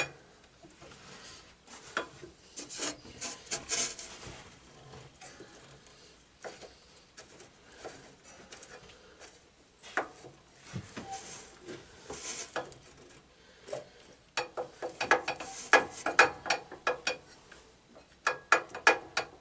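Hand tools at work on a garden tractor's steering parts: scattered metal clicks, knocks and scrapes, then dense runs of rapid clicking in the last five seconds.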